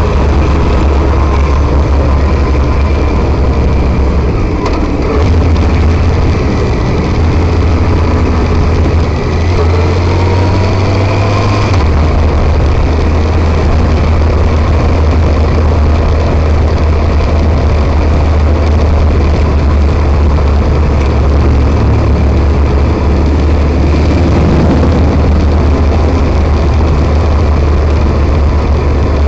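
Motorcycle riding at speed: the engine runs under a loud, steady low rumble of wind on the microphone, with its pitch shifting a little about ten seconds in.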